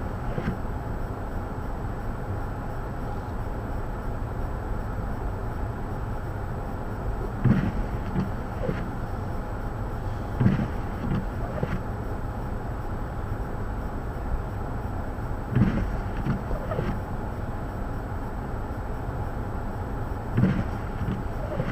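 Wind buffeting the microphone in a blizzard: a steady low rumble, with a few short gusty thumps every several seconds.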